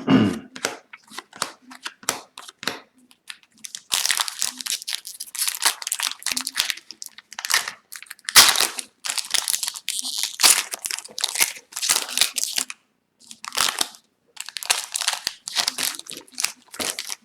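Hockey card pack wrappers being torn open and crinkled by hand, in irregular bursts with sharp clicks from the cards being handled.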